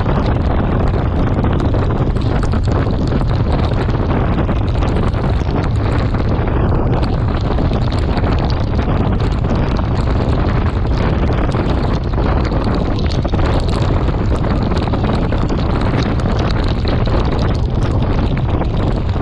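Wind buffeting the microphone of a camera on a moving bicycle, a steady loud rumble with a hiss of the tyres and spray on the rain-soaked path, dotted with many small ticks.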